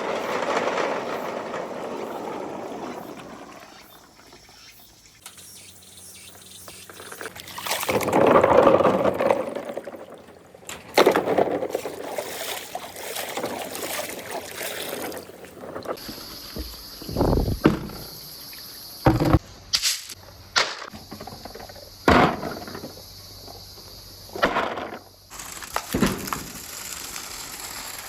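Marbles rolling along a marble-run track: a swelling rolling rush, loudest about a third of the way in. In the second half come a string of sharp clacks as marbles strike the track and each other.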